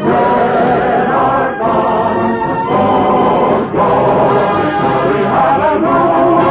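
Choir and orchestra performing a marching song, dull-sounding, with nothing heard in the upper treble, as on an old radio recording.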